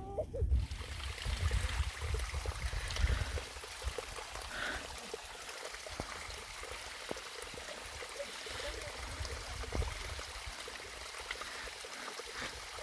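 Steady hiss of running or falling water, starting abruptly about half a second in, with a heavy low rumble over the first three seconds.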